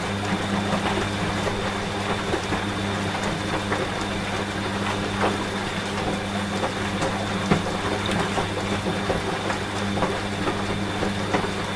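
Washing machine running with a steady low hum, under rain pattering with many small scattered drops.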